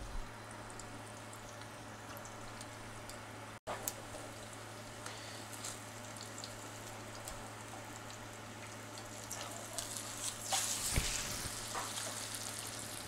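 Chijimi batter of bean sprouts and pork sizzling in hot oil in a frying pan, with scattered crackles. About ten and a half seconds in the sizzling briefly grows louder as the pancake is turned over with a spatula.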